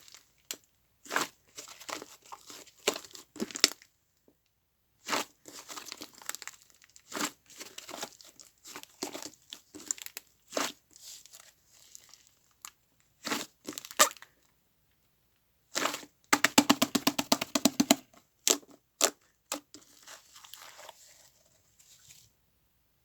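Hands squishing, stretching and poking a fluffy whipped-cream-textured slime that has set a little stiff, giving irregular crackles and sharp pops. About two-thirds of the way through comes a dense quick run of popping.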